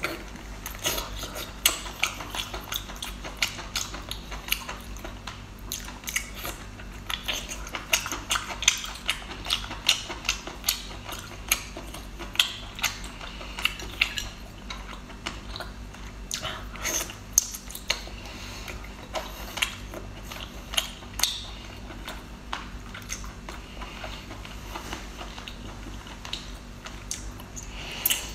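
Close-up mouth sounds of eating braised octopus: wet biting, chewing and sucking on tentacles, with many sharp smacks and clicks. A faint steady low hum lies underneath.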